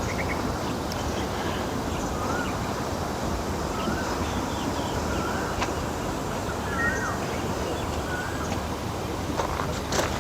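A bird calling over and over, a short wavering whistle every one to two seconds, over a steady outdoor background hiss. A few sharp clicks come near the end.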